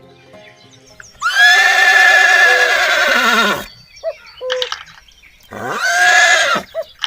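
Horse whinnying twice: a long quavering whinny about a second in that drops in pitch at its end, then a shorter one near the end.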